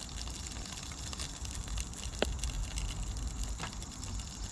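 Camp stove burner running steadily under a frying pan, with faint sizzling from hot oil and two light clicks, one about halfway through and a fainter one later.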